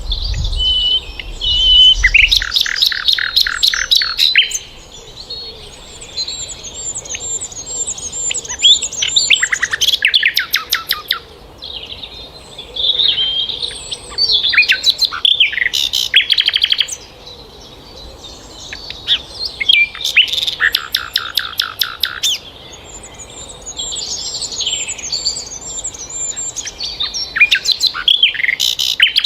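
Songbirds singing: loud bursts of fast rattling trills mixed with whistles come about every five to six seconds, with fainter thin high chirps in between.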